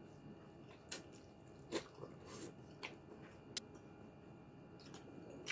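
A person chewing braised pork in lechon paksiw, with a handful of short, soft wet mouth clicks and lip smacks spread over the few seconds.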